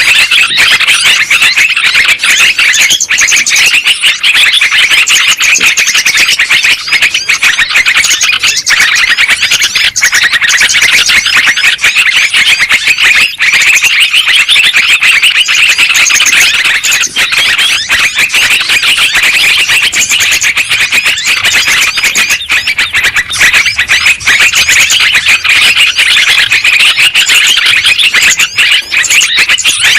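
A dense, loud chorus of many small birds chattering, chirping and trilling all at once without a break: a 'burung ribut' commotion recording of the kind played to lure small birds.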